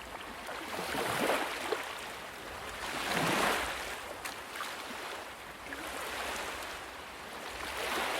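Ocean waves washing ashore, the surf swelling and falling away in slow surges every couple of seconds.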